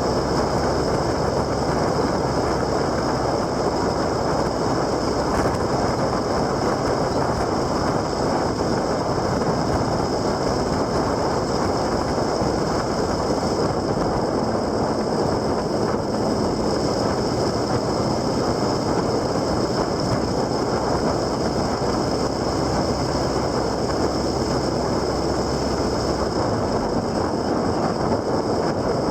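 Steady wind rush and running noise of a vehicle being ridden at an even pace.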